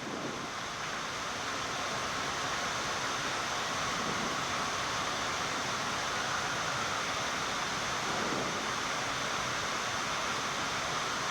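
Steady rushing of air in a Boeing 787 flight deck on final approach with gear and flaps down: airflow and cockpit ventilation noise, even and unbroken.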